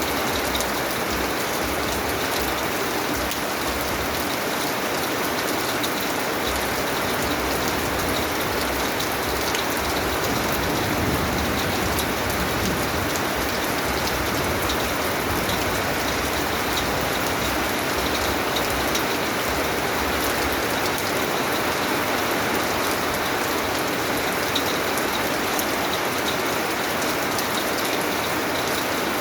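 Steady rain falling, a dense even hiss with many small drop ticks pattering on a surface.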